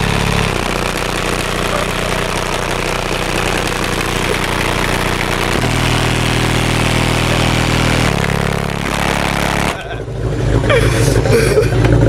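A car engine held at steady revs, its pitch stepping to a new level a few times, over a broad rushing noise. Near the end it drops off abruptly and voices take over.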